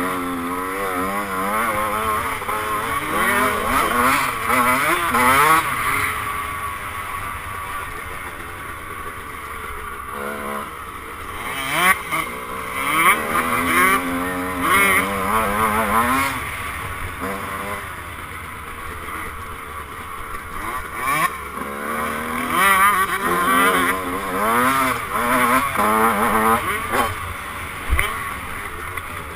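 Single-cylinder two-stroke engine of a 1996 Honda CR125 motocross bike, ridden hard. Its pitch climbs and drops again and again as the throttle is opened and closed and the gears change.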